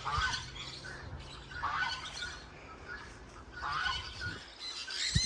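Birds calling outdoors: three short, harsh calls roughly two seconds apart, over a faint steady low hum.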